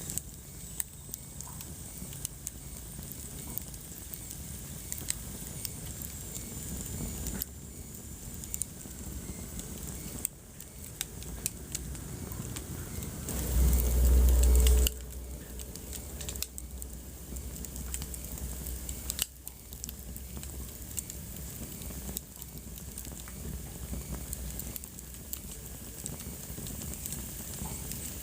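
Wood fire crackling in a fireplace, with frequent sharp pops and snaps over a soft hiss. About halfway through there is a brief low rumble lasting about a second and a half.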